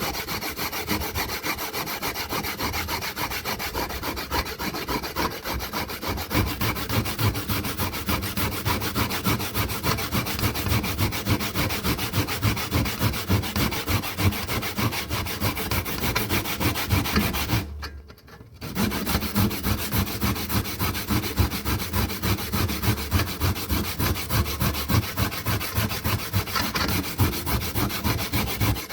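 Rapid, repeated scraping strokes of an abrasive tool working a hard surface, with a short break about eighteen seconds in.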